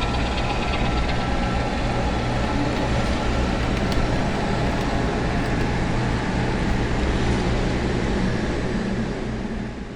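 Diesel locomotive engine idling with a steady low hum, fading out at the very end.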